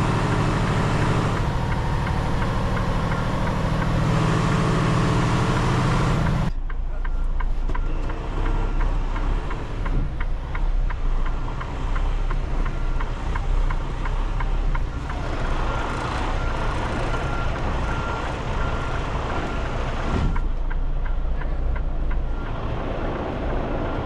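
Semi truck's diesel engine running while the truck maneuvers, heavy and low-pitched at first, then abruptly thinner about a quarter of the way in. Later a faint repeating reverse-alarm beep sounds over the engine.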